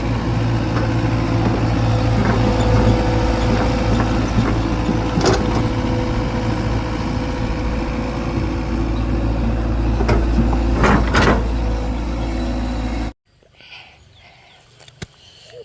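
A heavy machine's engine running steadily, with a few sharp knocks; the sound cuts off suddenly near the end, leaving only faint low sounds.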